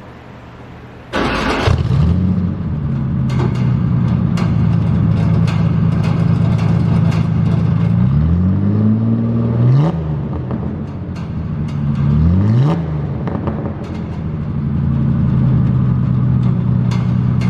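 Ford Ranger engine with a straight-piped exhaust through a 3-inch bed stack. It is started about a second in, catches and settles to idle, and is then revved twice in park, each rev rising and falling back. The stack's rain cap rattles at idle.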